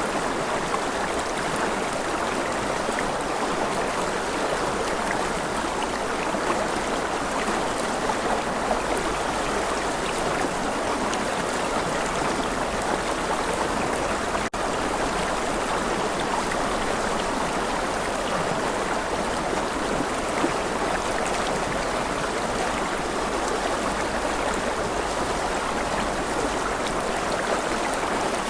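Steady rushing water of a flowing stream, an even unbroken wash of sound, with a momentary dropout about halfway through.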